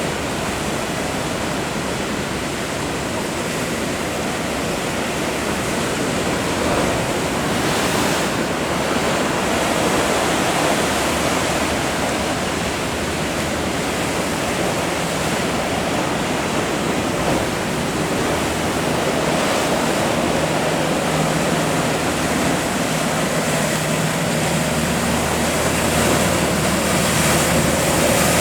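Ocean surf: a continuous rush of breaking waves. About two-thirds of the way through, an engine's low, steady hum comes in underneath and grows toward the end.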